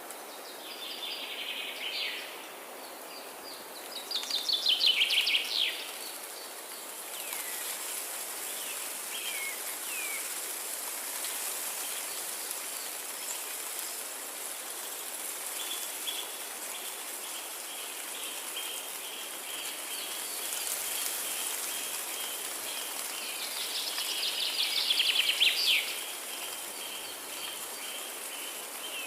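Forest ambience: songbirds singing over a steady hiss. The loudest is a fast trilled phrase about four seconds in, a similar phrase comes near the end, and a long run of rapid repeated high notes carries through the second half.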